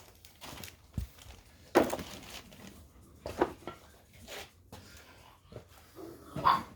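A few scattered knocks and clicks, with a dull thunk about a second in.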